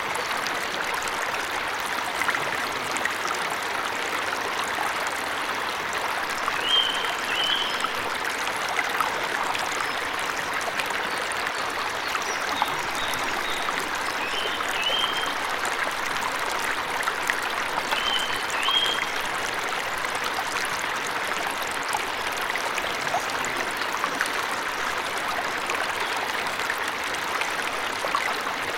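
Waterfall rushing steadily, with a small bird chirping short paired notes a few times over the water noise.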